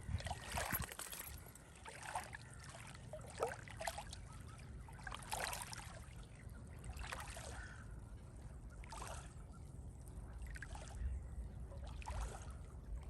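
Faint splashes and trickling water around a small wooden rowing dinghy, coming every second or two over a low background rumble.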